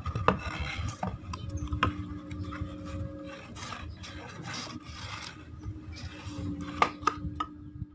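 Irregular rasping and rubbing on wood by hand, with scattered sharp clicks.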